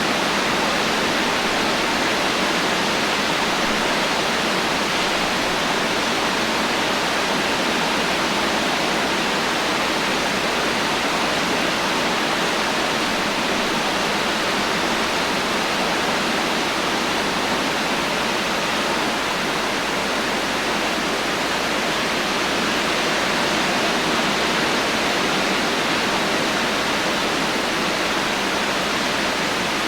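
Heavy rain falling steadily, a dense even hiss with no thunder and no distinct drops.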